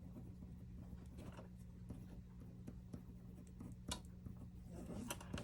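A few faint clicks and light scrapes of small repair tools against a smartphone's parts, over a steady low electrical hum.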